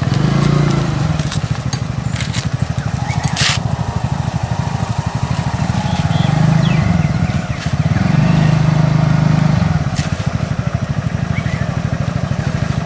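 A vehicle engine running close by, mostly idling, its pitch rising and falling a few times. There is a sharp click about three and a half seconds in.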